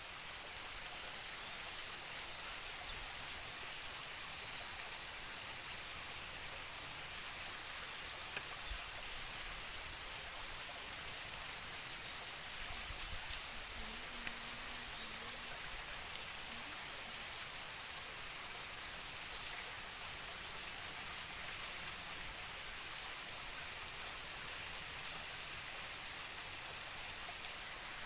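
Steady insect chorus, a continuous high-pitched shrill that holds at the same level throughout, over a faint even hiss.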